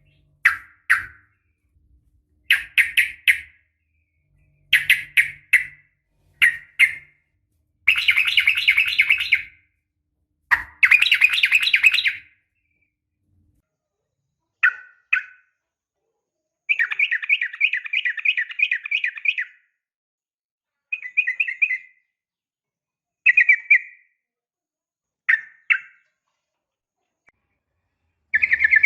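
Yellow-vented bulbul (trucukan), a female calling for a male, giving short phrases of two or three quick notes separated by silent gaps. It breaks into longer rapid chattering runs about a third of the way in and again past the middle.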